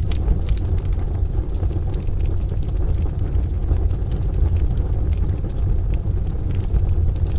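Rain and a crackling wood stove: steady rain hiss over a continuous low rumble, with scattered sharp crackles and pops from the fire.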